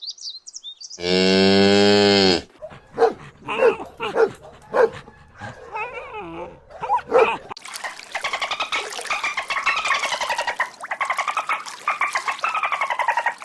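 A cow moos once, a long low call about a second in. It is followed by a run of short, varied animal calls, and then by a fast, pulsing, wavering call through the last several seconds.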